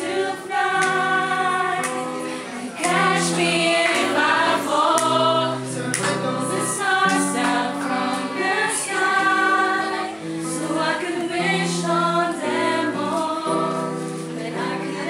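A small choir of mixed voices singing a song in harmony, with several parts holding notes together.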